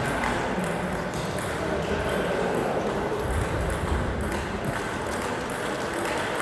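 Table tennis rally: a celluloid/plastic ping-pong ball struck back and forth by rackets and bouncing on the table, a run of quick sharp clicks.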